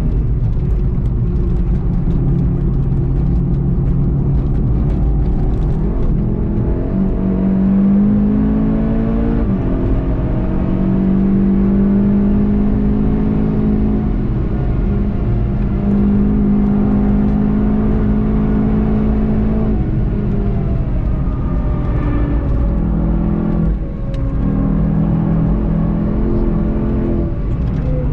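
Turbocharged 2.0-litre four-cylinder of a VW Golf 7.5 GTI TCR heard from inside the cabin, driven hard on track: the engine note climbs and steps down repeatedly with gear changes and corners over a constant road rumble. There is a brief dip in loudness about 24 seconds in, and the pitch falls near the end as the car slows.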